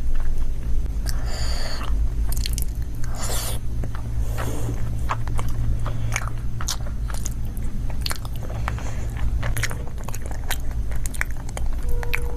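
Close-miked mukbang eating of kala jamun in rabdi: wet chewing with many sharp mouth clicks and smacks throughout, and a few longer hissy mouth sounds in the first five seconds. A steady low hum lies underneath.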